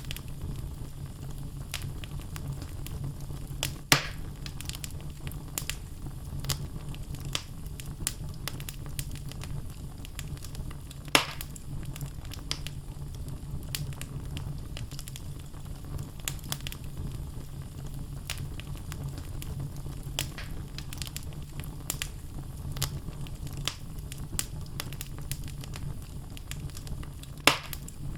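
Wood logs burning in a fireplace: a steady low rumble of flame with frequent small crackles, and three louder sharp pops, about 4, 11 and 27 seconds in.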